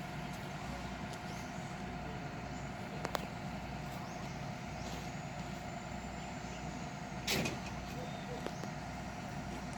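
Backhoe's diesel engine running steadily with a low rumble. There is a sharp click about three seconds in and a brief louder noise about seven seconds in.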